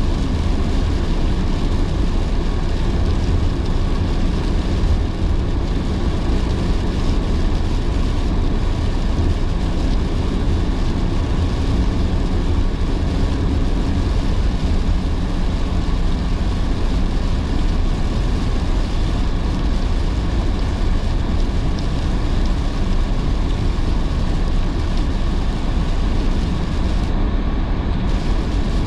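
Steady car cabin noise while driving in heavy rain: a low rumble of tyres and road with an even hiss of wet road and rain over it.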